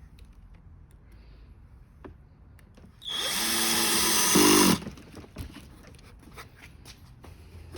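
Cordless screw gun driving a screw in one burst of under two seconds. Its motor whine steps up in pitch and loudness just before it stops. Faint small knocks and clicks of handling come before and after.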